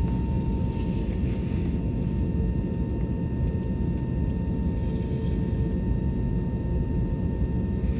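Airbus A320neo jet engine and airflow noise heard from the cabin: a steady, heavy low drone with a few faint constant whine tones above it.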